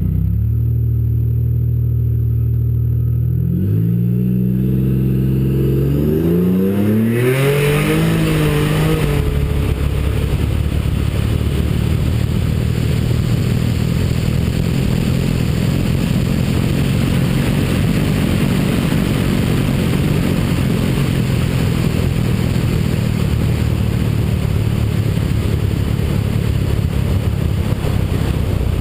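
Turbocharged 4.0-litre V6 of a 2007 Ford Mustang drag car, first running at a steady low speed, then revving up in several rising sweeps with short breaks between them from about four to nine seconds in, as the car launches and shifts up. After that a loud, steady noise without a clear pitch runs on.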